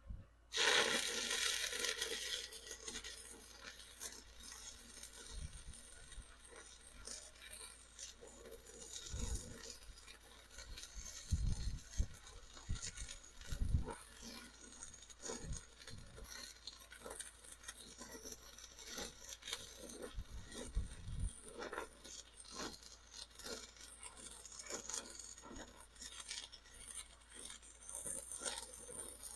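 Stick-welding arc struck about half a second in, then crackling steadily with irregular sharp snaps and pops as a bead is run.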